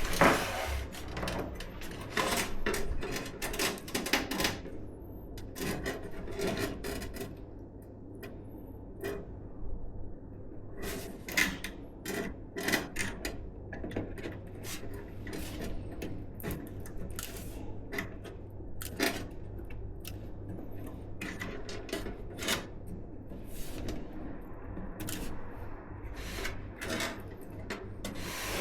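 Hands handling and fitting PC hardware: many irregular small clicks, taps and knocks of plastic and metal parts, with short rustles in between.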